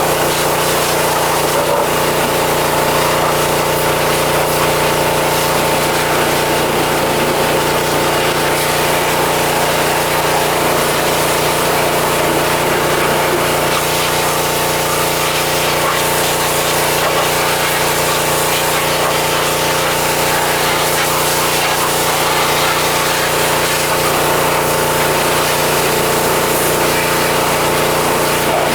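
Pressure washer running steadily: the even hum of its motor and pump under the constant hiss of the water jet.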